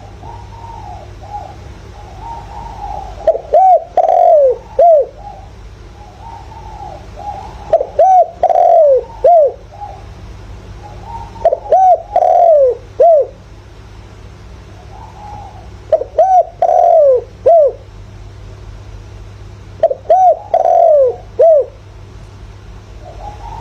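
Spotted dove cooing: loud phrases of several falling coo notes, repeated about every four seconds, with softer coos between phrases. A steady low hum runs underneath.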